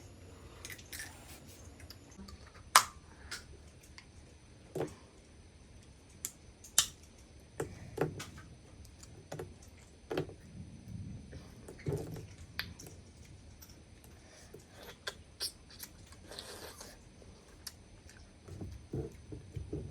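A person chewing and eating mud crab, with scattered sharp clicks and cracks, the loudest about three and seven seconds in.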